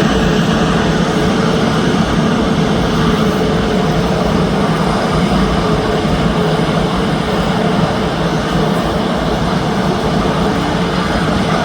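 Boeing C-17A Globemaster III's four Pratt & Whitney F117 turbofan engines running at high power as the aircraft departs. A loud, steady jet noise with a constant hum in it.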